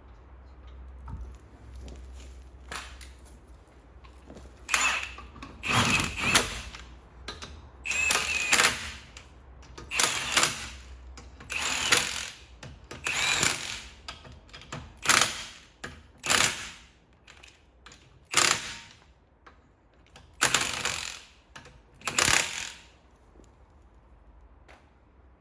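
Impact wrench running the wheel nuts onto a front wheel of a 2005 Subaru Impreza in a dozen or so short bursts, starting about five seconds in. The nuts are run up but not yet torqued.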